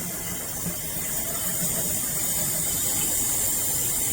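Water running steadily from a single-lever waterfall-spout bathroom faucet into a medium-depth sink, with some splashing. The flow gets a little louder about a second in.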